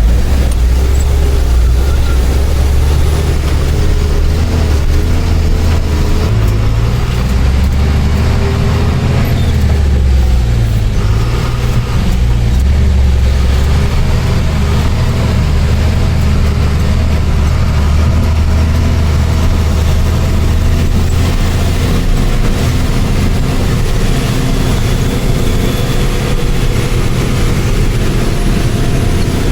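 Truck engine running as the truck drives, a loud steady low drone whose note shifts about a quarter of the way through and again about two-thirds through.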